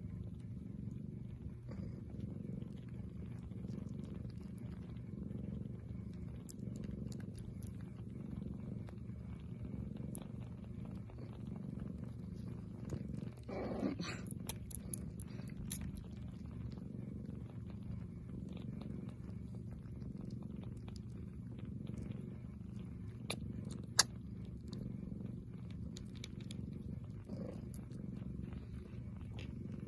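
A domestic cat purring steadily and close by, with a brief higher-pitched sound about halfway through and a single sharp click about two-thirds of the way in.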